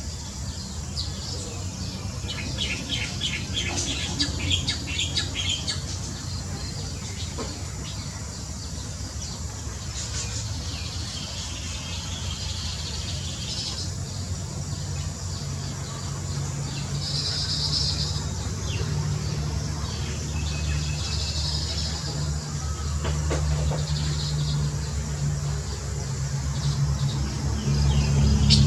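Small birds chirping and calling, with a quick run of repeated high chirps a few seconds in and short bursts of calls later. Under them runs a steady low hum that grows louder toward the end.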